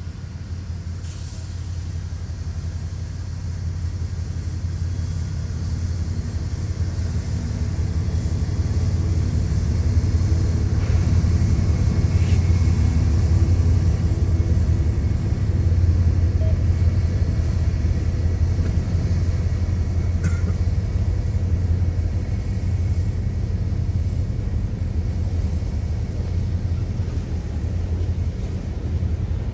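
Diesel locomotive engine running with a deep steady rumble, growing louder over the first ten seconds and then holding steady.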